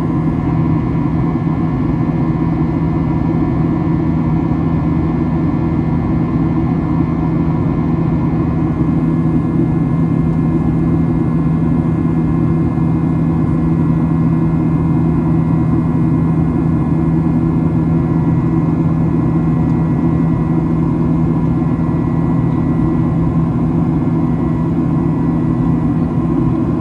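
Steady drone inside the cabin of a Boeing 737-800 with its CFM56 turbofan engines running evenly: a constant low hum with a few fixed tones over a rushing air noise, unchanging in pitch and loudness.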